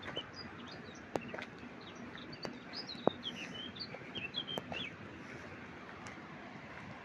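A small songbird chirping in quick short high notes from about two and a half to five seconds in, over a steady background hiss, with a few sharp clicks.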